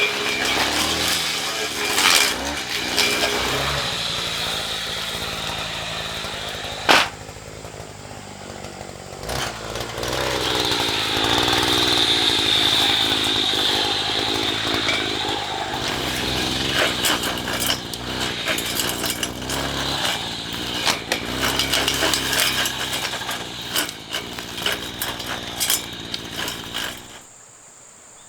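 A handheld power tool's small petrol engine running, its speed rising and falling as it works, with one sharp knock about seven seconds in. The engine cuts off suddenly near the end.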